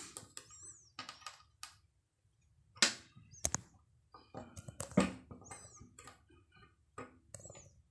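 Scattered light clicks and taps as multimeter test probes are touched onto the LEDs of a TV backlight strip, with a few sharper clicks around the middle.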